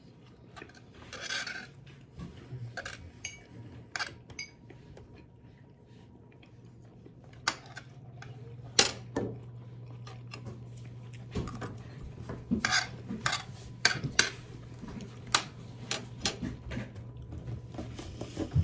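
Cutlery clinking and scraping against plates as people eat, a string of sharp, irregular clicks, over a low steady hum.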